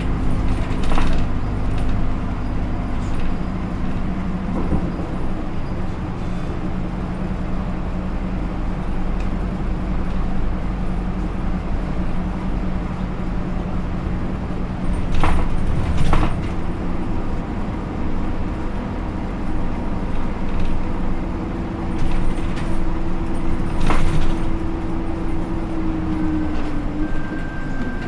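Hino Rainbow II bus with an Isuzu 4HK1-TCH four-cylinder turbodiesel and Aisin automatic, running along the road as heard from on board. The engine note changes about four or five seconds in, a rising tone sets in later and stops near the end, and a few sharp knocks or rattles come through along the way.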